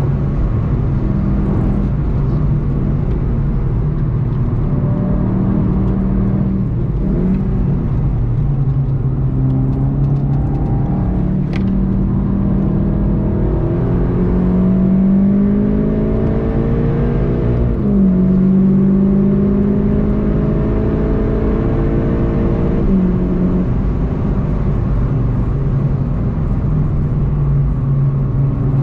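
Volkswagen Golf GTI TCR's turbocharged 2.0-litre four-cylinder heard from inside the cabin at speed over tyre and road noise. It eases off a few seconds in, then accelerates hard, the engine note climbing through the gears and dropping at upshifts about two-thirds of the way through and again a few seconds later.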